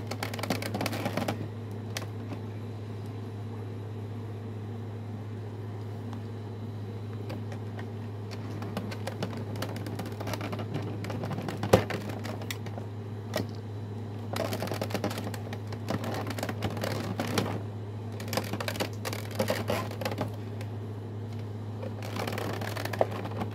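Hands working a toy robot's cardboard and plastic packaging: irregular clicks, crinkles and rustles in bursts, with one sharper snap about halfway through, over a steady low hum.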